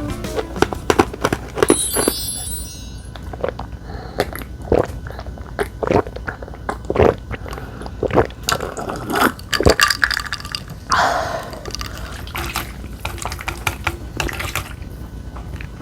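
Tableware clicking and knocking at a meal, irregular sharp clicks, with a brief wet liquid sound about eleven seconds in.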